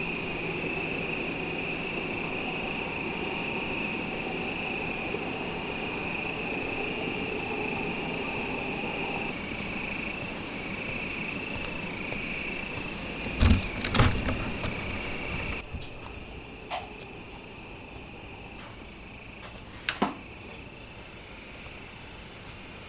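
Steady high-pitched insect chorus over a low background hum, with a cluster of sharp knocks a little past halfway and another single knock later on; the background turns quieter partway through.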